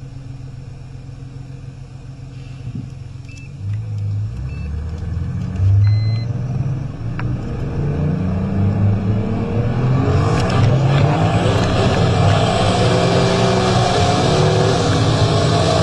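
Turbocharged BMW M3 E46's S54 3.2-litre straight-six heard from inside the cabin: idling at the start, revved in short surges about four to six seconds in, then pulling away and accelerating hard, the engine note rising and growing louder from about ten seconds in.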